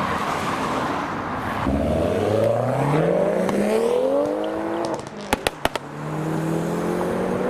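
A modified car's engine accelerating hard past, its pitch climbing steadily for about three seconds. The engine then lifts off briefly with a few sharp pops and pulls again at a steady note.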